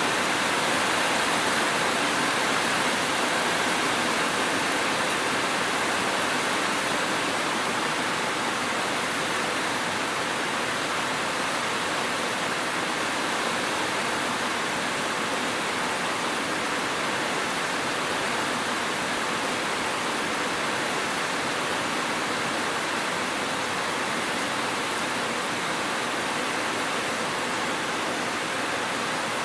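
Steady heavy rain, a dense even hiss with no distinct drops or thunder.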